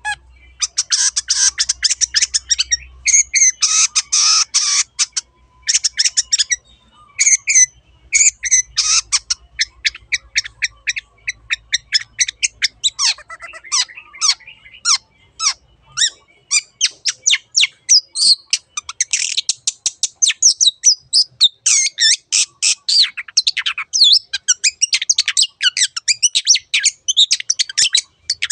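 Long-tailed shrike (cendet) singing hard: a fast, dense string of short, sharp chattering notes with a brief break about five seconds in.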